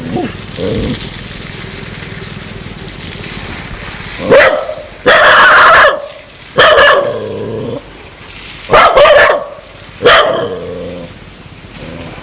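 Dog barking: a quiet start, then about five loud barks from about four seconds in, a few of them drawn out.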